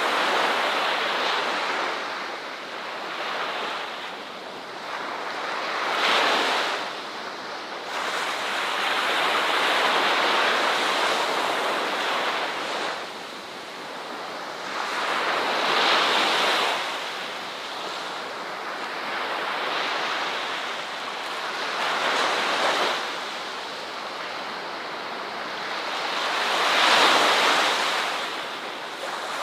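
Ocean waves breaking and washing onto a beach, a steady rush of surf that swells and ebbs every few seconds, the loudest break near the end.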